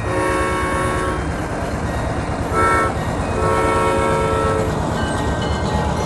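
A train-style horn on the Santa Train sounds three times: a blast of about a second, a short toot, then a longer blast. A low engine rumble from the tractor pulling the train runs underneath.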